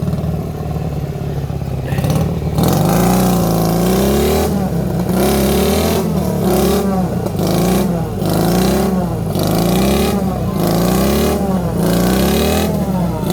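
Dnepr MT-11 sidecar motorcycle's boxer-twin engine revved up and down over and over, starting about two and a half seconds in, as the bike sits stuck with its wheel spinning.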